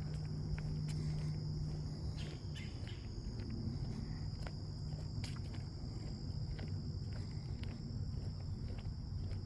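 Insects trilling steadily in a continuous high-pitched chorus, with scattered footsteps on a path and a steady low hum underneath.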